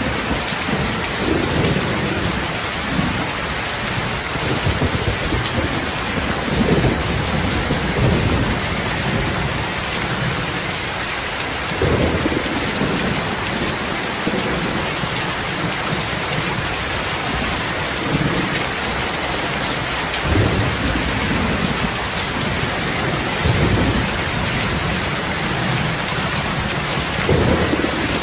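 Heavy rain falling steadily, with low rumbles of thunder swelling up every few seconds.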